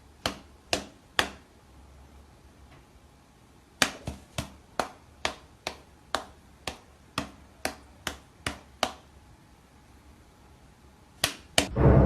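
A series of sharp, short taps: three in the first second or so, then a run of about a dozen at roughly two a second, then two more close together near the end.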